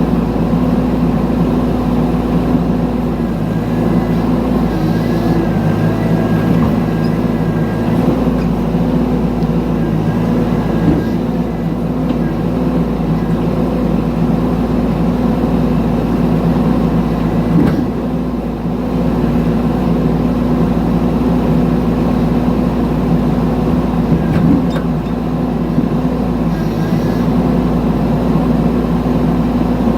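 Mini excavator's diesel engine running steadily under work, with a few brief thin whines early on and a couple of light knocks.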